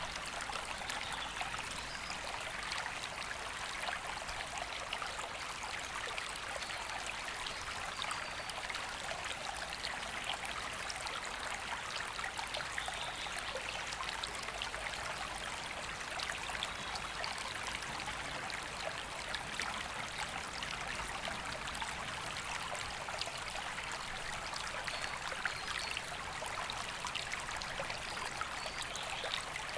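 A woodland river flowing and babbling over stones, a steady rushing of water with no let-up.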